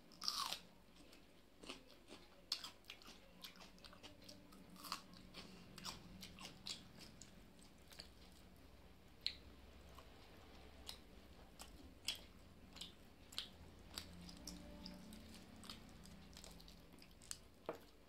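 Close-up eating sounds of a person biting and chewing chicken curry with rice: soft chewing with sharp, wet mouth clicks and smacks scattered throughout. The loudest click comes with a bite into a piece of chicken right at the start.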